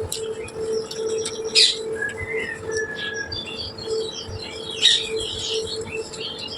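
Small birds chirping busily, with louder chirps about one and a half and five seconds in, over a steady low hum.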